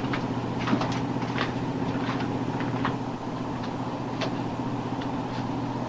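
Steady low engine drone of a patrol boat's machinery, with a few light knocks scattered through it.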